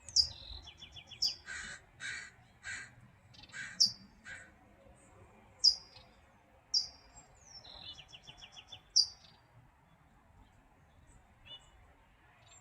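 A small bird's sharp, high beeping calls, each sliding down in pitch and repeated every second or so, some followed by a short rapid clicking run. A crow caws several times in the background.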